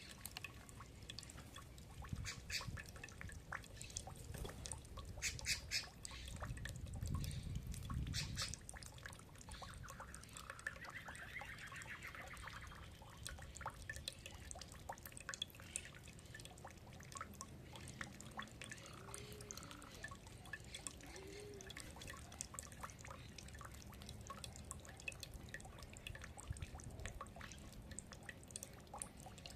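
Birds feeding, with many scattered sharp ticks and clicks and a few short, soft bird calls.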